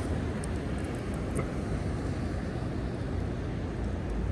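Steady riding noise of an e-bike rolling on INNOVA 20x4 fat tires: an even low rumble with a few faint ticks.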